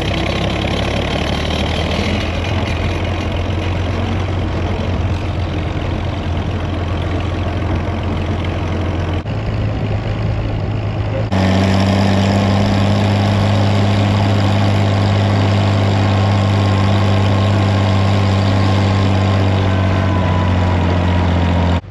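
Old farm tractor engine running steadily with a strong low hum during a ride. The sound changes abruptly about nine seconds in and again about eleven seconds in, then runs a little louder and steadier.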